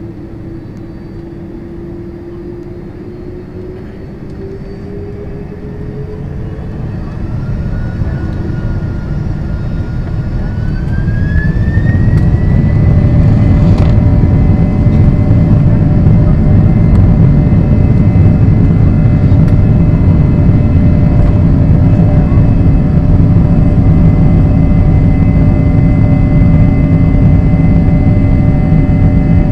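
Jet airliner's engines spooling up to takeoff thrust, heard from inside the passenger cabin. A whine rises in pitch and the rumble grows louder over about the first twelve seconds. Then it settles into a steady, loud rumble with a high, even whine through the takeoff roll.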